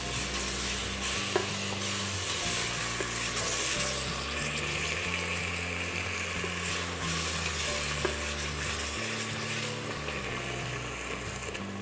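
Onions and garlic sizzling in hot oil in a stovetop pressure cooker as tomato sauce goes in and is stirred, with a few clicks of the spoon against the pot. The sizzle eases somewhat near the end.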